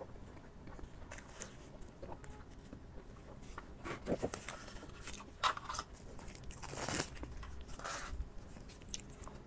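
Close-miked eating sounds of a person biting and chewing soft cake, with a few short louder noisy bursts in the middle and near the end.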